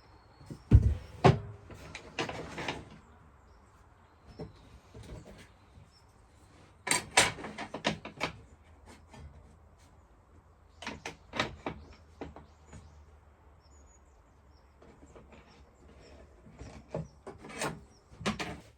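Scattered knocks and clicks of wooden pieces being handled and set down. They come in several short clusters with quieter gaps between.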